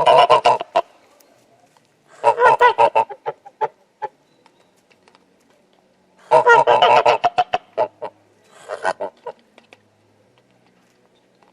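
A goose honking in four quick bouts of rapid, repeated calls, the last one short.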